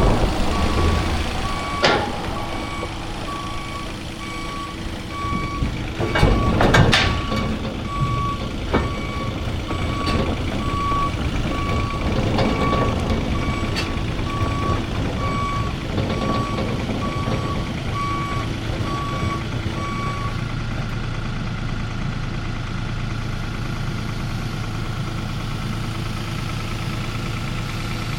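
Reversing alarm on a tracked diesel construction machine, a JCB mini excavator or compact track loader, beeping in an even rhythm over the running engine, with several loud metal clanks. The beeping stops about two-thirds of the way through and the engine runs on steadily.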